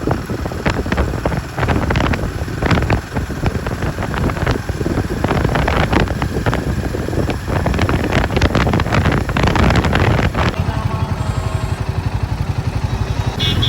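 Royal Enfield Himalayan 450's single-cylinder engine under way, with wind buffeting the microphone. About ten seconds in the wind drops away and a steadier engine note with an even pulse comes through, as at low speed.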